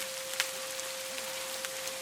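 A steady 528 Hz sine tone hums under recorded rain: an even hiss with scattered individual drops ticking, one louder drop about half a second in.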